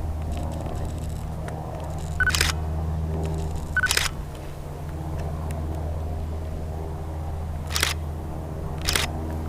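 Handheld DSLR camera shutter firing four times, in two pairs about four seconds apart. Each of the first two shots comes just after a short high autofocus-confirmation beep. A steady low hum runs underneath.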